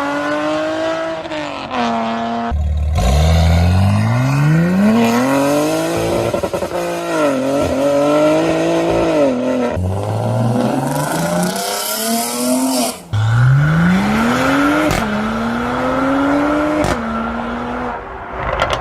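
Inline-six car engines revving hard up through the gears, the pitch climbing and then dropping back at each shift. It cuts abruptly from one car to another a few times.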